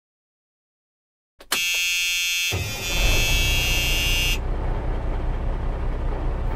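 An alarm clock buzzes steadily for about three seconds. About a second after the buzzing starts, a low engine rumble comes in under it and keeps running steadily.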